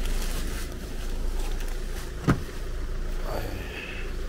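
A car's engine idling with a steady low rumble as a passenger climbs out. A single sharp thump comes about two seconds in.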